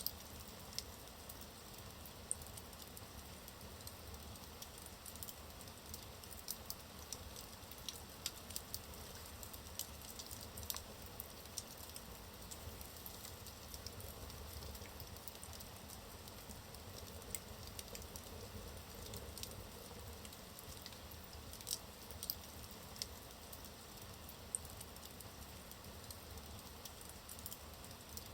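Logs burning in a fireplace: a steady low rush of flames with irregular sharp crackles and pops from the wood throughout.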